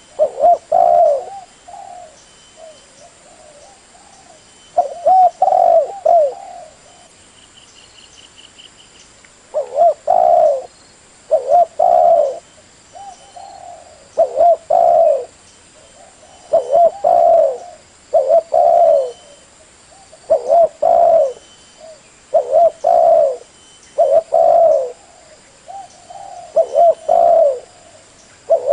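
Spotted dove cooing: loud repeated coo phrases, with a couple of pauses in the first ten seconds, then a steady series of about one phrase every two seconds.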